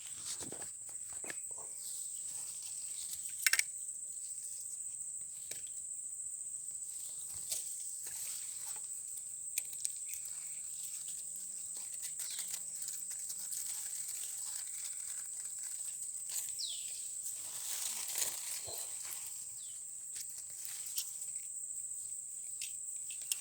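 Steady high-pitched insect chorus, like crickets, with scattered clicks and knocks, the sharpest about three and a half seconds in.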